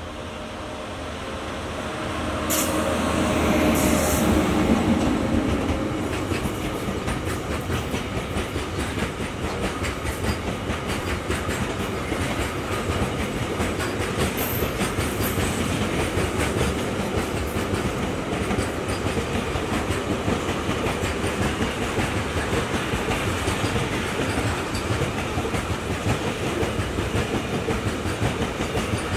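WAG-9HC electric locomotive passing close by, loudest about four seconds in, followed by a long container freight train rolling past with a steady rumble and rapid clatter of wagon wheels on the rails.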